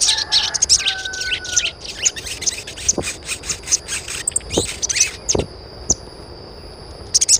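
Birds chirping: many short, quick high calls, busiest in the first two seconds and then thinning out, with a steady high tone setting in about halfway through.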